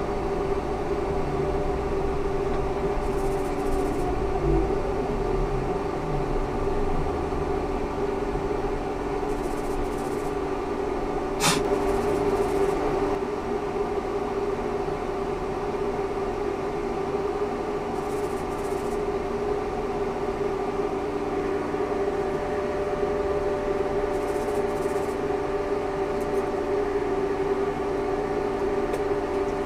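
Ikarus 280T trolleybus with GVM electrical equipment running, its electric drive giving a steady hum with several held tones over road noise. A single sharp click about eleven and a half seconds in.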